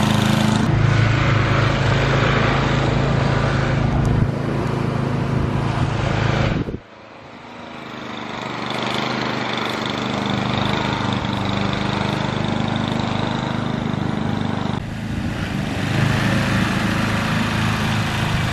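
Gas snowblower engine running steadily while clearing deep, heavy snow. About seven seconds in the sound drops away sharply, then builds back up over a couple of seconds.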